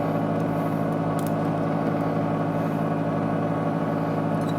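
Steady machine hum from the vacuum pump of a heated suction screen-separator plate.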